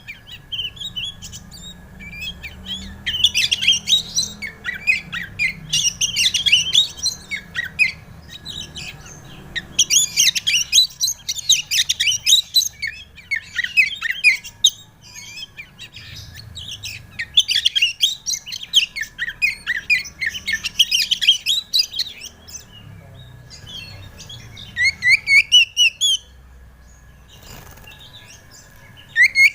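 Oriental magpie-robin (kacer) singing loud, varied phrases of quick sweeping whistles and chirps, in bursts of a few seconds with short pauses between. A faint steady high tone runs underneath.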